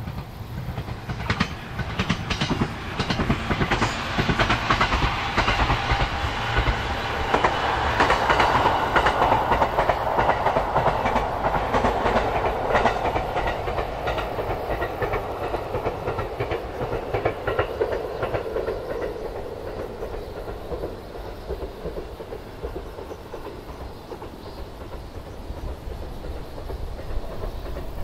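ET127 series electric multiple unit running past, wheels clicking over the rail joints, growing louder to a peak about ten seconds in and then fading as it moves off, its sound sliding lower in pitch as it goes. Wind rumbles on the microphone throughout.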